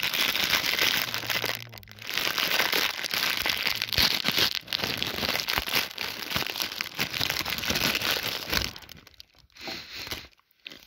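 Plastic packaging crinkling and rustling as it is handled, with a short pause about two seconds in; it stops a little before the end.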